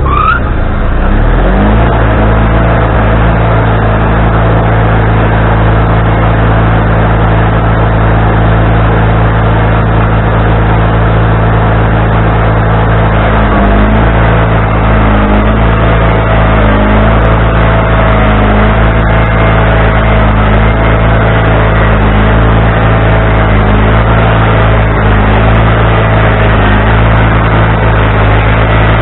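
Wood-Mizer LT40HD band sawmill's engine revving up in the first second or two, then running steady at high speed. From about halfway through, its pitch wavers slightly in a regular pattern about every second and a half.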